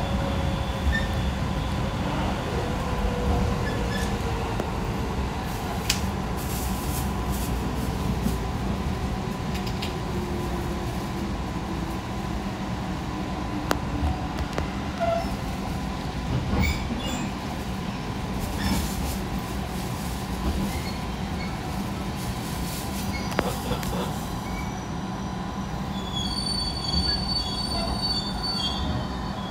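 Electric train running and slowing into a station, heard from inside: a steady rumble under a motor whine that falls slowly in pitch over the first ten or so seconds, with scattered clicks of wheels over rail joints. A high-pitched brake squeal sets in over the last few seconds as the train comes to a stop at the platform.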